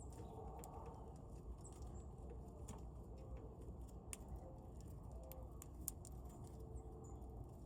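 Birds feeding at a seed feeder: irregular small clicks and taps of pecking and seed-cracking, with a few faint short chirps, over a steady low background rumble.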